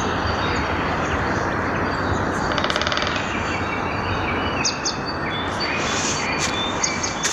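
Small birds chirping, with a fast trill about three seconds in, over a steady rushing noise.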